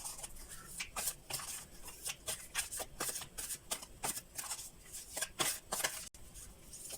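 A deck of oracle cards being shuffled and handled by hand: irregular soft rustles and flicks of card stock, several each second.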